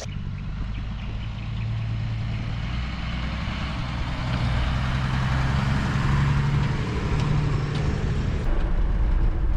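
Old GMC pickup truck driving on a rough track: steady engine hum whose pitch shifts a little, with road noise and a few knocks and rattles near the end.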